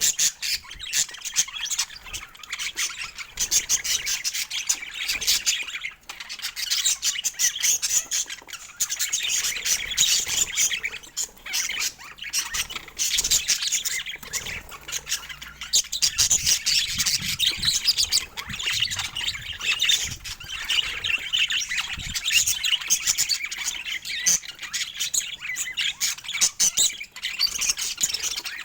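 Budgerigar chatter: a dense, unbroken stream of high warbling chirps with many short clicks.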